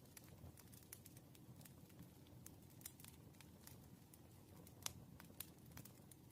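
Faint, irregular light clicks and ticks of study at a desk, such as a pen on paper while working through practice problems, over a steady low room hum. The clearest click comes a bit under five seconds in.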